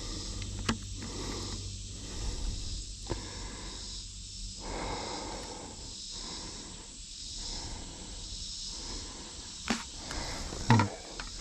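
Outdoor ambience with a steady high chorus of insects that swells and fades slowly, over uneven rustling. A few sharp clicks or knocks stand out, the loudest near the end.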